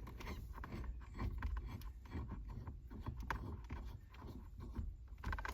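Faint metal clicks and taps as a harmonic balancer puller and its bolts are handled and fitted against a steering wheel hub, over a low rumble.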